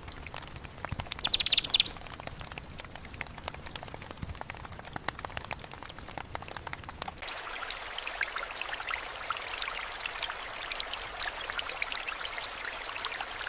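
Rain falling as a steady patter of drops, with a brief fast chirping trill about a second in that is the loudest sound here. About seven seconds in, the low rumble drops away and the patter turns brighter and denser.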